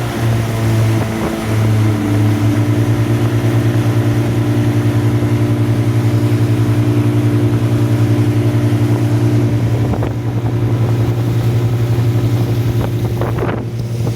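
Two Suzuki outboard motors, a 15 hp and a derestricted 9.9 hp, running together at speed on an inflatable boat, a steady drone that wavers for the first couple of seconds. Wind on the microphone and splashing water come through near the end.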